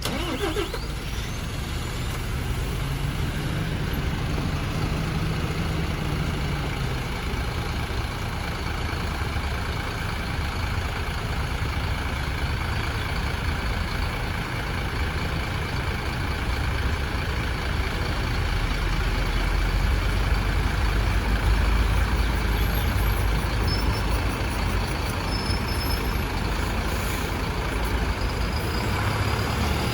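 MAN A95 Euro 6 bus diesel engine cranked and started, then settling into a steady idle as its pitch falls over the first few seconds. Later, about two-thirds of the way through, the engine grows louder and deeper as the bus pulls away.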